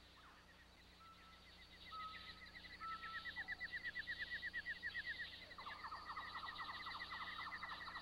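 Birds calling: a fast, even chirping trill runs throughout, a few short whistled notes and a falling note come in the first half, and a second, lower rapid trill starts a little past halfway.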